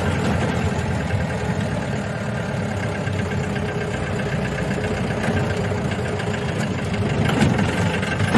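Vintage Land Rover engine running steadily, heard from inside the cab while driving slowly along a rough dirt track.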